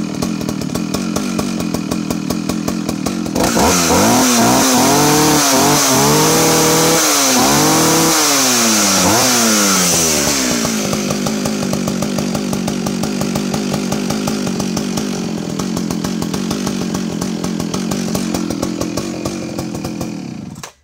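Partner R16 55cc two-stroke chainsaw idling, then revved to full throttle several times, its pitch rising and falling, before dropping straight back to a steady idle without hesitation. The engine sound cuts off suddenly near the end.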